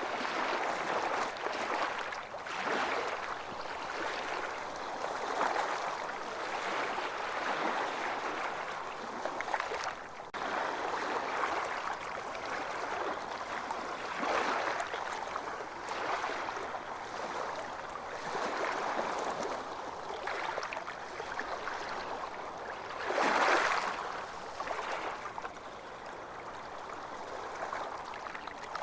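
Ocean waves washing onto a beach: a steady rushing wash that swells and falls back every few seconds, with one stronger wave breaking late on.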